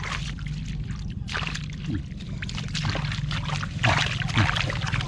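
Water splashing and sloshing in irregular bursts, busiest in the second half, over a steady low hum.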